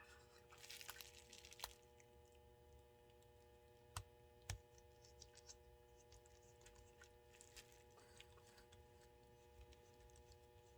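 Faint clicks and taps of small plastic model-train parts and a small screwdriver being handled, with a few sharper clicks (about one and a half, four and four and a half seconds in) and a light rustle near the start. A faint steady electrical hum runs underneath.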